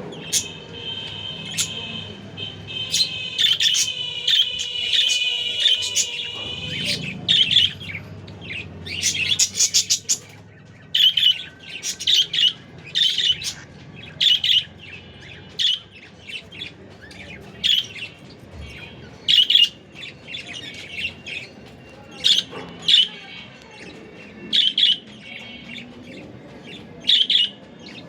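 Cockatiel calling: a long, warbling whistle for the first six seconds or so, then short chirps repeated about once a second.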